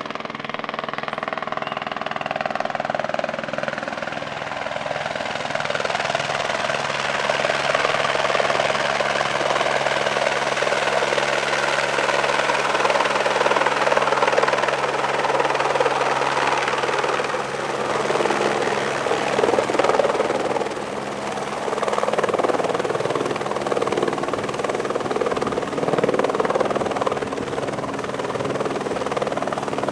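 Helicopter rotor and engine running continuously, with an even rotor beat and a broad whooshing noise. It grows louder over the first several seconds, then holds with some rises and falls.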